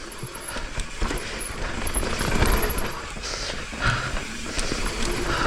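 Mountain bike riding down a dirt trail: tyres rolling over dirt and rock, with the bike rattling and knocking over the bumps and a rumble of wind.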